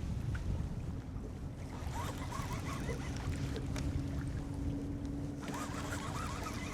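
Boat motor humming steadily while trolling, its tone setting in about a second in, over low wind rumble and water noise.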